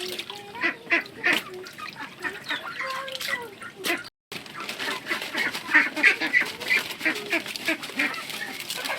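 A flock of ducks quacking, many short overlapping calls, with a brief dropout a little after four seconds.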